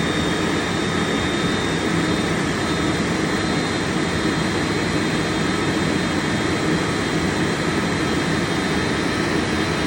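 Airbus A330-300's General Electric CF6 turbofan engines running at low taxi thrust as the airliner rolls in to park: a steady, even rumble with a thin high whine held on a constant pitch.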